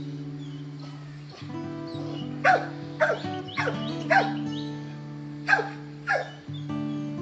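A dog barking about six short barks, each dropping in pitch: four in quick succession starting about two and a half seconds in, then two more near the end. Background music with plucked guitar plays throughout.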